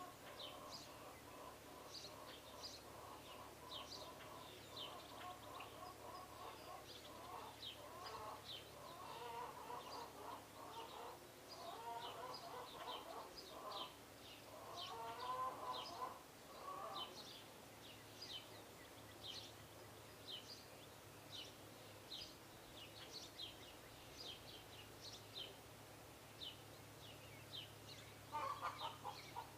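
Small birds chirping over and over in quick, high, short notes, with a lower, wavering, clucking call through the first half and again near the end.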